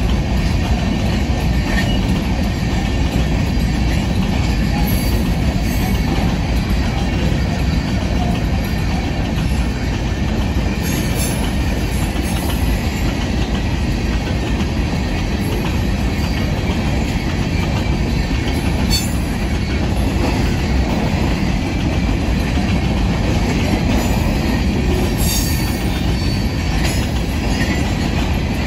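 Empty rock hopper cars of a BNSF freight train rolling past, a steady rumble of steel wheels on rail with clickety-clack over the joints. Brief high-pitched wheel squeals rise out of it a few times.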